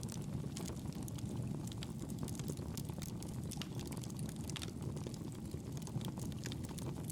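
Campfire burning: a steady low rush of flames under frequent sharp crackles and pops.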